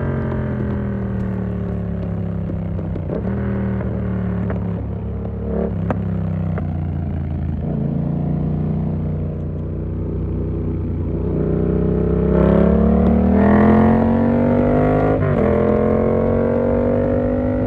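Yamaha MT-07's parallel-twin engine through an SC-Project exhaust with the dB killer in: falling in pitch as the throttle is eased off, running steady at low revs, then accelerating hard with the pitch climbing from about twelve seconds in, broken briefly a couple of times.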